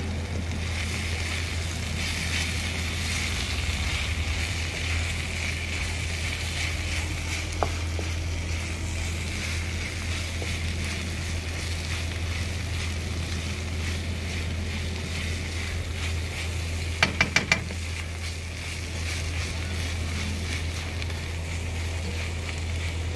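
Sago grubs and vegetables sizzling in oil in a steel wok on a barbecue grill, stirred with a wooden spoon. There is a steady frying hiss, a single click near eight seconds in, and a quick run of four sharp knocks at about seventeen seconds.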